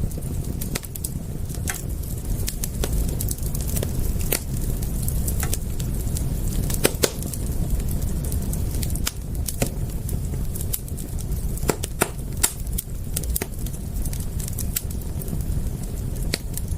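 Wood fire crackling, with irregular sharp pops and snaps scattered through it over a steady low rumble.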